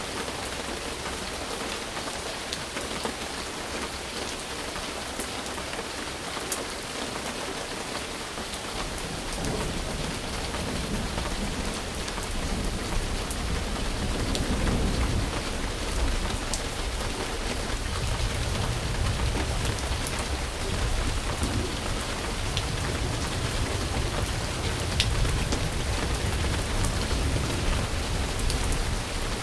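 Steady rain falling with scattered sharp drop ticks. About a third of the way in, a low rolling rumble of thunder builds and carries on beneath the rain.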